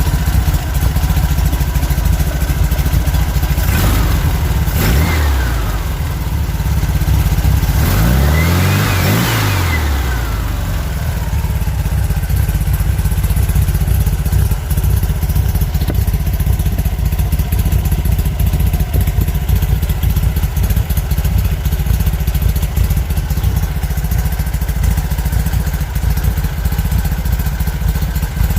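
An engine running steadily at idle, revved up and back down twice in the first ten seconds, then settling back to a steady idle.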